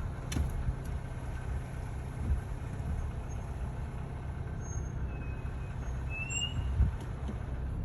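A 2021 Cadillac XT4 rolling with a steady low road rumble, and a faint high brake squeal that comes in briefly about five seconds in and rises near six and a half seconds. A small thump follows near the end.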